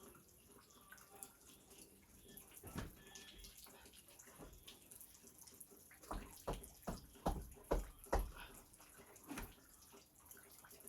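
A single knock about three seconds in, then a quick run of about seven dull knocks over two seconds, and one more shortly after, over a faint hiss.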